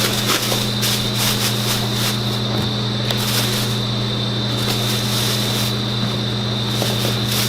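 Steady hum of a car's engine running, heard from inside the cabin, with a thin high whine over it and a few light clicks.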